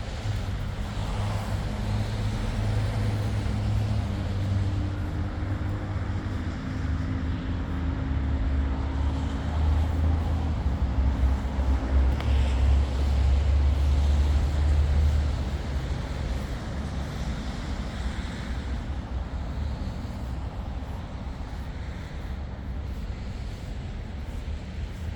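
City street traffic: a steady low rumble of road vehicles, swelling as a heavy vehicle with a low engine hum passes through the middle.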